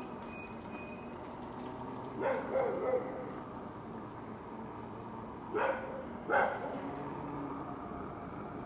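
A dog barking: a quick run of three barks about two seconds in, then two single barks less than a second apart past the middle.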